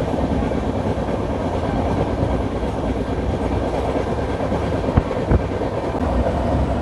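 Passenger train coaches running along the track, heard from on board: a steady rumble and rattle of wheels on rails, with two sharp clacks about five seconds in.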